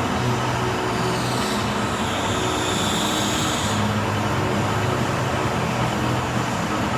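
Metalworking machine tool running steadily with a constant hum, and a high-pitched cutting whine about a second and a half in that stops a little before halfway.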